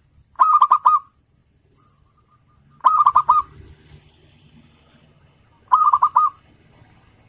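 Zebra dove (perkutut) singing: three short phrases, each a quick run of four or five cooing notes, about two and a half seconds apart, with fainter notes in between.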